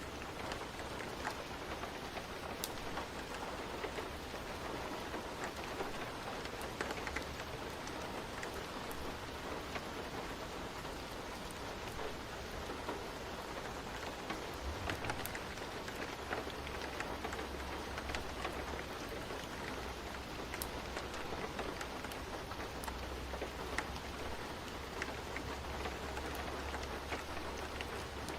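Steady rain falling on a surface, with scattered sharp ticks through it and a low rumble underneath that grows stronger about halfway through.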